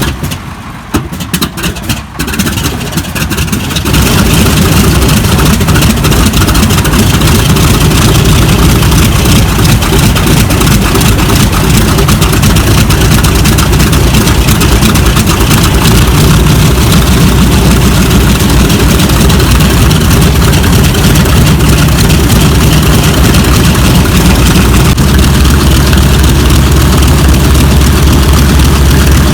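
The TBM Avenger's Wright R-2600 Cyclone 14-cylinder radial engine running loud and steady. For about the first four seconds it runs unevenly, then it settles into a continuous heavy rumble.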